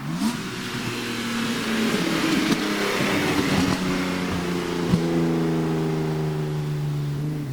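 BMW E36 328i's straight-six engine running under load as the car drives, its note rising sharply right at the start, then holding fairly steady, with a click and a drop in pitch about five seconds in, as at a gear change.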